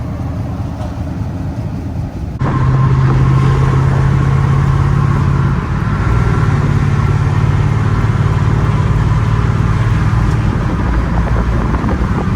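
Motor vehicle driving: steady engine drone with road noise, stepping up louder about two and a half seconds in.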